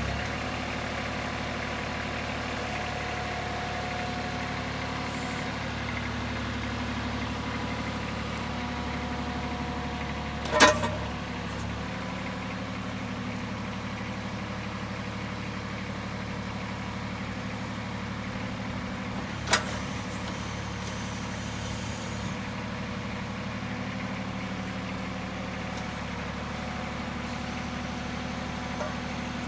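Kubota B21 backhoe's diesel engine running steadily, with two sharp knocks, one about a third of the way in and another about two-thirds in.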